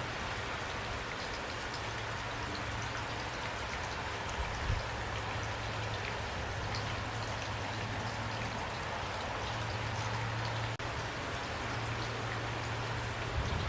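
Steady rain falling, with individual raindrops ticking over an even hiss, and a low steady rumble underneath.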